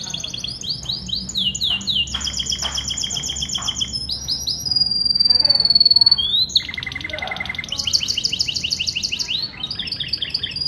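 Canary singing: fast trills of rapidly repeated high notes, broken by one long, slightly falling whistled note about five seconds in, then more rapid trills.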